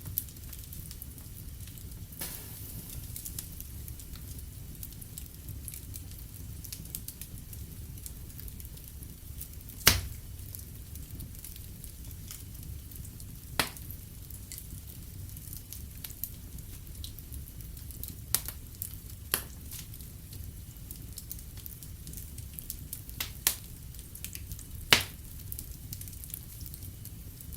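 Wood fire in a fireplace crackling: a steady low rumble and hiss with sharp pops every few seconds, the loudest about ten seconds in and another near the end.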